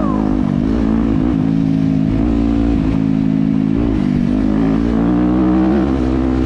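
Off-road dirt bike engine running while riding, its pitch rising and falling with the throttle.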